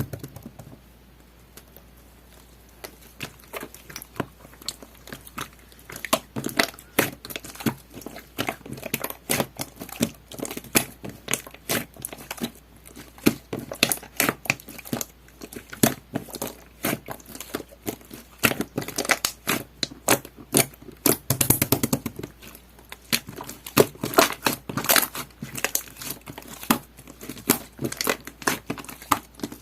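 Jelly-textured slime being squished and pressed by hand, making dense, irregular sticky clicks and small pops that start about three seconds in and continue, with a louder cluster of squishes partway through.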